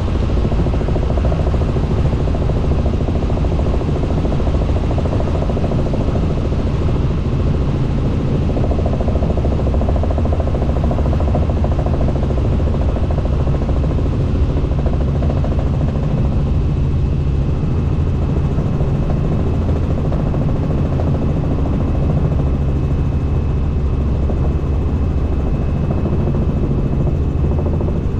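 Helicopter engine and rotor drone heard from inside the cabin in flight: a loud, steady low-pitched throb, with a faint thin whine coming in about halfway through.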